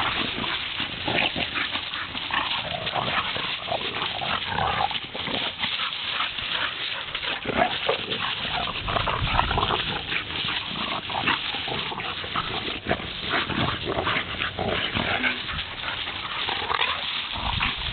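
Two pit bulls play-fighting: continuous snarling, growling and scuffling, which sounds like a real fight.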